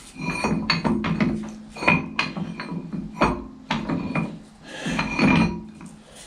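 Steel parts and tools being handled on a workbench: repeated metallic clinks and knocks, some with a short ring.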